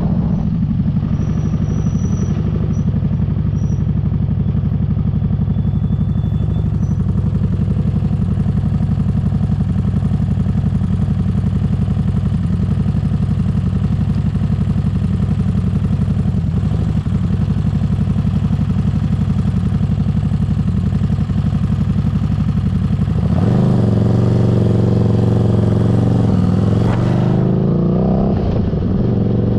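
Motorcycle engine running steadily at low revs, then accelerating about 23 seconds in, its pitch climbing, dipping briefly a few seconds later, and climbing again.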